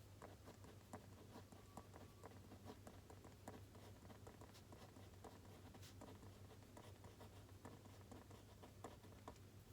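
Faint writing on paper: many quick, irregular scratching strokes and taps of a pen or pencil, over a steady low hum.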